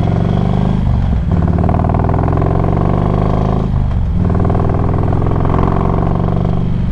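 Harley-Davidson Street Glide's Screaming Eagle 110 V-twin running through DNA megaphone slip-on pipes while riding, its note held steady and dipping briefly twice, about one second in and again near four seconds, as with gear changes.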